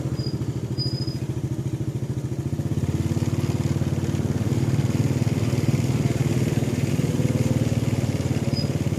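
An engine running steadily with a rapid, even pulse, slightly louder in the second half, with a couple of short high chirps near the start and again near the end.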